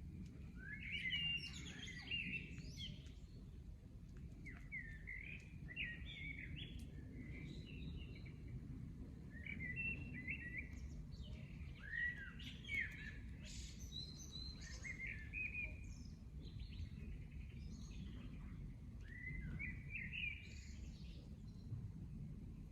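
Songbird singing short chirping phrases every two to three seconds, over a steady low rumble of background noise.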